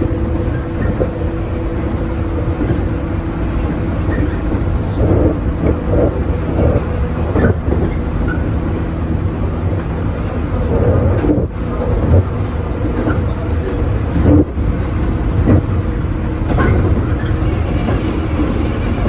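Electric train running on the rails: a steady low rumble with a constant motor hum, and irregular clicks and clatter from the wheels and track.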